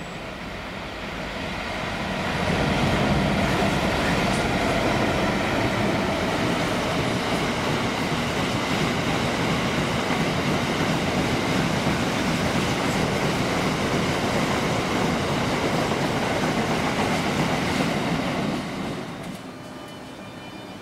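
GB Railfreight Class 66 freight locomotive, with its two-stroke V12 diesel, and its wagons passing, building over the first couple of seconds, holding steady and loud, then dropping away near the end.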